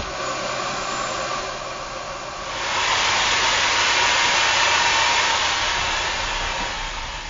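Vacuum cleaner motor running steadily with a whooshing hum. It grows louder about two and a half seconds in and fades near the end.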